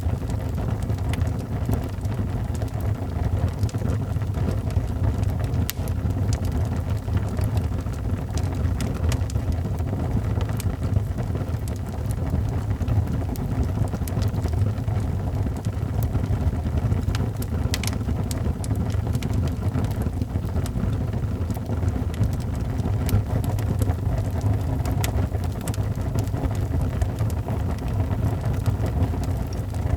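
Wood fire in a fireplace burning with a steady low rumble and scattered sharp crackles and pops.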